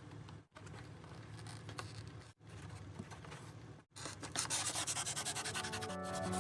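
Hand work on hard styrofoam: rubbing and scraping strokes in several short cut-together clips, turning into quick, even back-and-forth strokes from about four seconds in. Music starts near the end.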